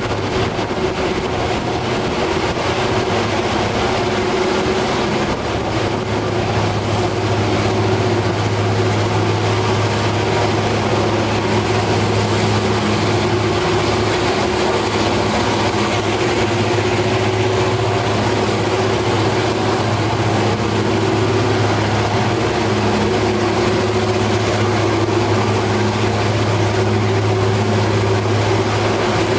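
Steady running noise of the El Chepe passenger train on the move, heard from between the wagons: a continuous rumble with a low engine drone that grows stronger about five seconds in.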